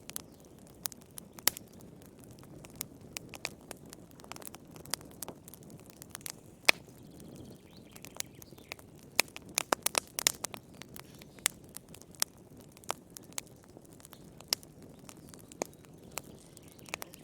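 Fire crackling in a fireplace: irregular sharp pops and snaps over a soft low hiss, with a quick flurry of pops about ten seconds in.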